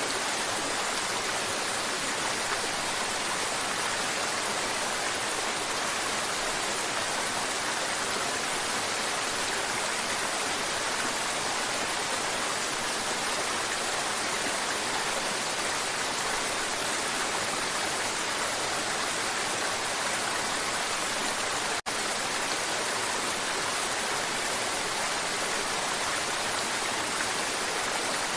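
Mountain river water rushing and babbling over rocks in a steady, unbroken hiss, except for a split-second gap about three-quarters of the way through.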